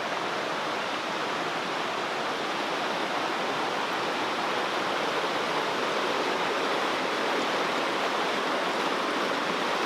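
Creek water rushing steadily, a fast-moving creek swollen by recent rain.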